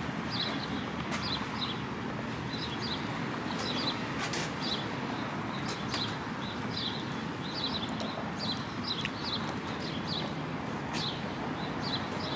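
Small birds chirping, short high chirps repeating a few times a second, over a steady background rush.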